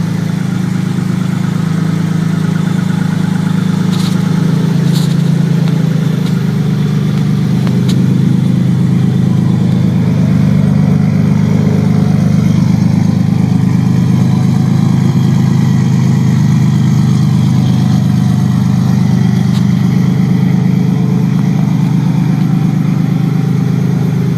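Car engine idling steadily on its first start-up after a rebuild with all-new bearings, sounding "pretty good". A few faint clicks are heard in the first third.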